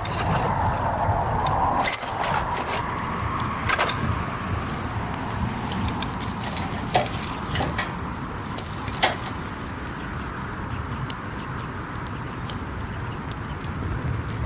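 Wood campfire burning: irregular sharp crackles and pops over a steady rushing noise of the flames, with a few louder pops.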